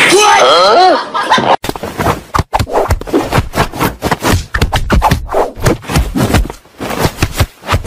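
A brief wavering cry rising and falling in pitch, then a cat swatting and scuffling: a dense run of rapid, irregular thuds and rustles.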